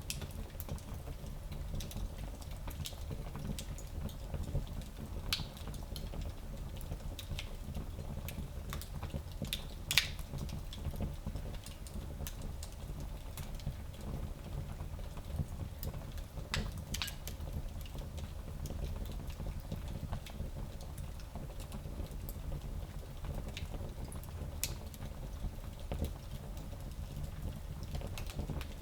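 Fire in a small fireplace crackling: a steady low rumble with scattered sharp pops, the loudest about ten seconds in.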